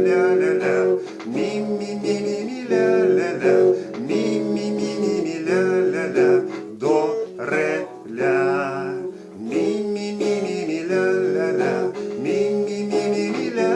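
Guitar playing the song's chords, with a man's voice singing the melody without words over it.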